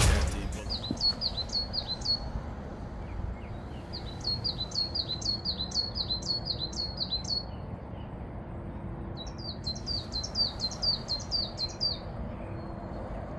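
A small songbird singing: series of sharp, high, down-slurred notes, several a second, given in three or four bursts with pauses of a second or two between them.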